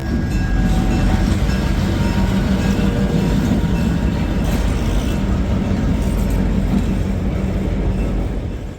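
Diesel-electric freight locomotives running: a loud, steady low engine rumble that fades and cuts off abruptly near the end.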